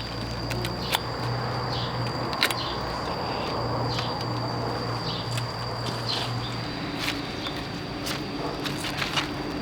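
Scattered clicks and footsteps over a steady high-pitched drone and a faint low hum.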